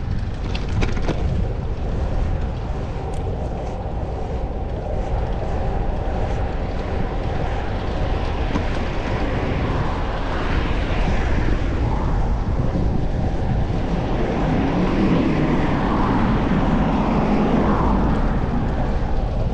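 Wind rushing over the microphone and road rumble from a fixed-gear bicycle riding along, with a broad swell of passing traffic noise in the second half.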